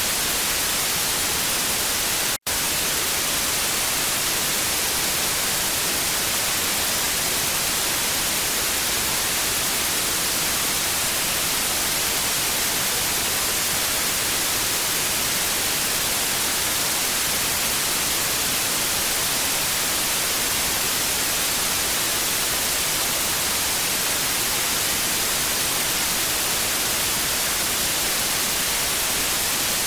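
TV static: a steady, even hiss of white noise, brightest in the high end, which cuts out for an instant about two seconds in.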